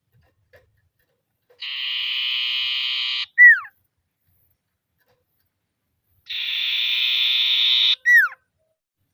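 Common iora (sirtu) calling twice: each phrase is a dry, buzzy trill held for under two seconds, ending in a short, sharply falling whistle that is the loudest part. This is the bird's trilling 'ngetir' call, used to challenge rivals.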